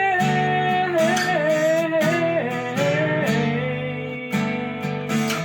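Song with acoustic guitar strumming and a voice holding one long sung note that steps down in pitch over the first three seconds or so.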